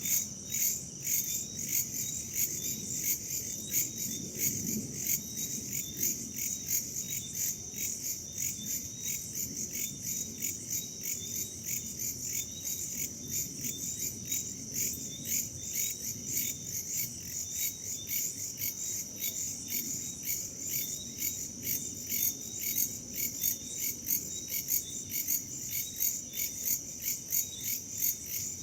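Crickets chirping in a steady night chorus, pulsing about twice a second, with a faint low rush of wind underneath.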